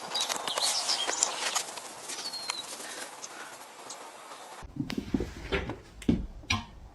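Birds chirping, short gliding calls over a steady background noise. About two-thirds of the way through, the sound cuts abruptly to a few dull knocks and thumps.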